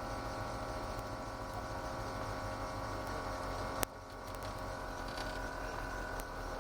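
Ford GT40's V8 engine running at a steady, moderate pace, heard from on board, with a low rumble. A single sharp click comes a little under four seconds in, and the engine sound drops slightly quieter after it.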